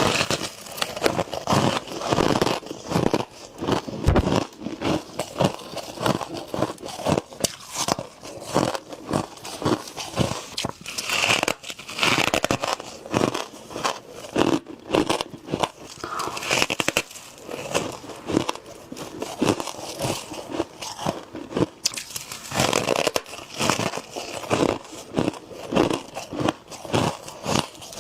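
A person biting into and chewing packed frost, in a rapid, close-up run of crisp crunches and crackles.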